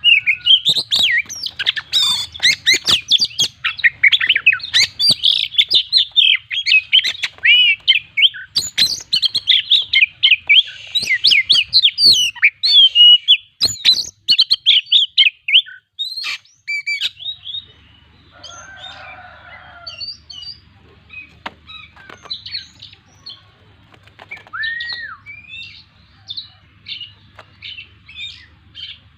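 Oriental magpie-robin (kacer) singing a loud, rapid, varied song packed with mimicked phrases, then dropping to sparse, fainter chirps after about sixteen seconds.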